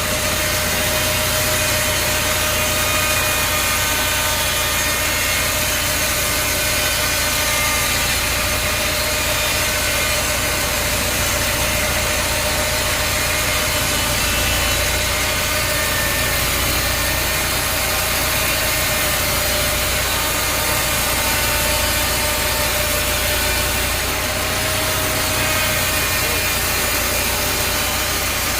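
Sawmill machinery running steadily: an engine-driven saw with a constant hum and no breaks or changes.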